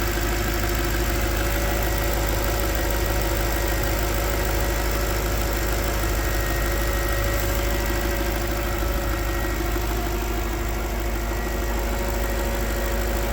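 Volvo XC90's V8 engine idling steadily, warming up after a cold start, with a constant hum and no change in speed.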